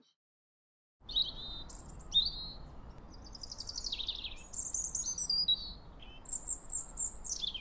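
Birds chirping, a busy run of high, quick chirps and downward-sliding whistled phrases starting about a second in, over a faint low rumble.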